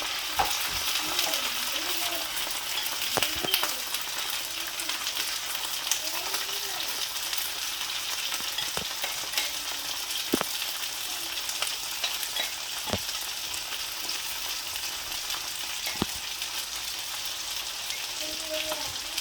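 Cicadas frying in hot oil with onion: a steady sizzle, with occasional sharp clicks scattered through it.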